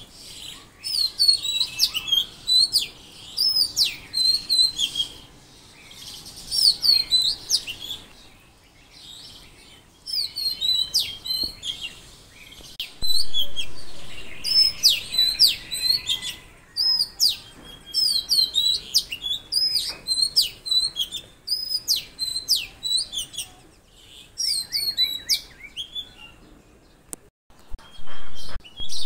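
Songbirds singing: bouts of quick, repeated high chirps and short trills, broken by brief pauses.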